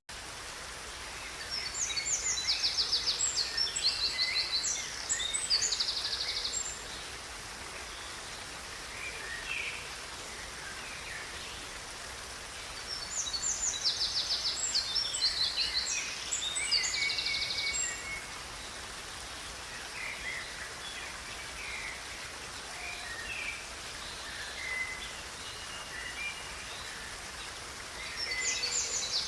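A songbird singing two long, loud bursts of rapid trills and chirps, with scattered short calls between them and a third burst starting near the end. Underneath runs the steady rush of flowing river water.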